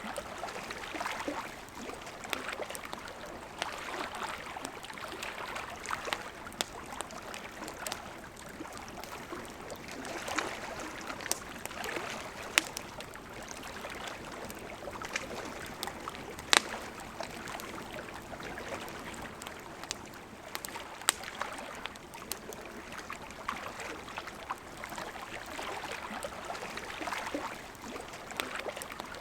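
Campfire crackling with scattered sharp pops over the steady rush of a flowing river. The loudest pop comes a little past halfway.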